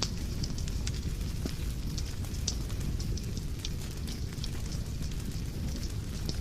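Wood fire in a fireplace burning with a steady low rumble and frequent sharp, irregular crackles and pops.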